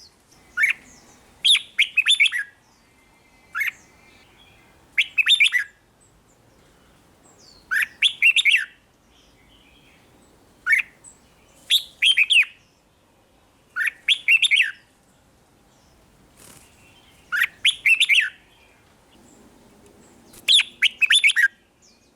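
Red-whiskered bulbul singing: short, quick phrases of bright, warbled whistled notes, about ten of them, repeated every second or two with brief pauses between.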